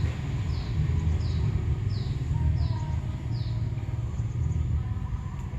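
Outdoor background noise: a steady low rumble, with a short, high, falling chirp repeating about every three-quarters of a second.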